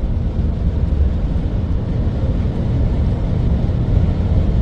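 Steady low road rumble of tyres and engine heard inside a car's cabin while driving at highway speed.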